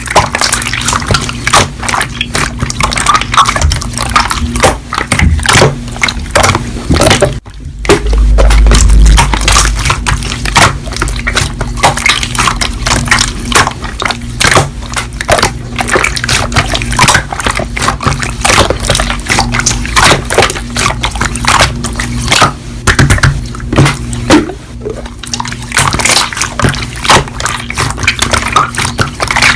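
Slime being squished and worked by hand, giving a dense run of wet clicks and pops.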